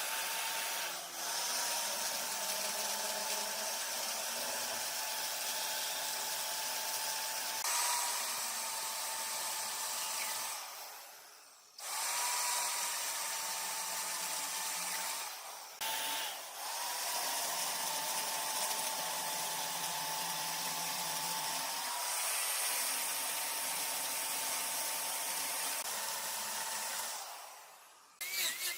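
Woodworking power tool running with a steady high whine over cutting noise. It drops out twice, once for about a second and once briefly, then starts again.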